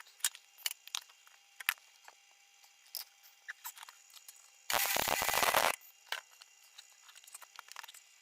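Electric arc welding on a steel bracket: one loud burst of weld about a second long, a little past halfway. Before and after it come scattered light clicks and taps.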